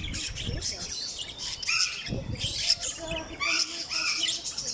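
A mix of small caged aviary birds chirping and calling, with many short, high chirps overlapping.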